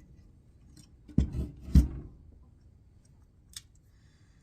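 Two solid knocks about half a second apart, the second the louder, then a faint click near the end: tools and gun parts being handled and set down on a workbench.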